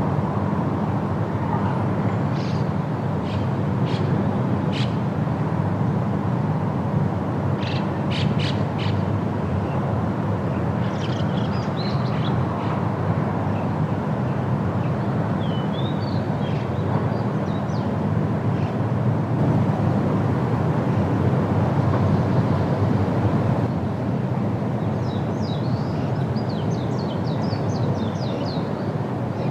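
Steady wind noise through a forest, with small birds chirping and trilling in short bursts several times over it.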